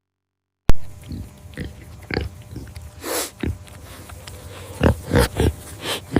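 Pig grunting in short, irregular calls, with a breathy blast about three seconds in and a cluster of louder grunts near the end. The sound cuts in abruptly with a click after a brief silence.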